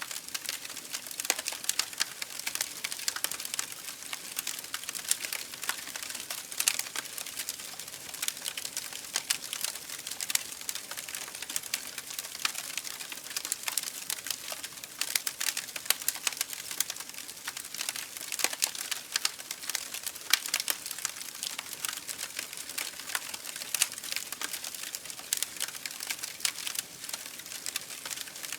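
Campfire crackling: burning wood gives off a steady hiss with dense, irregular pops and snaps.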